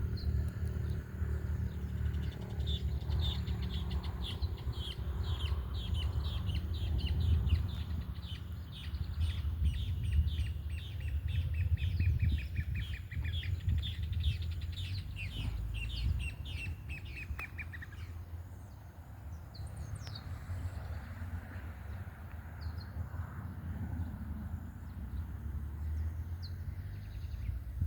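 A bird singing a long series of quick notes, about four a second, that slowly fall in pitch over some fifteen seconds before stopping; a few short single chirps follow. A steady low rumble runs underneath.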